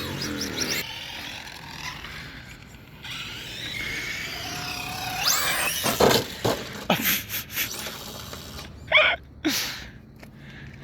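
Brushless electric motors of 2WD RC short course trucks whining up and down in pitch as they are throttled. Several sharp knocks come between about six and seven and a half seconds in.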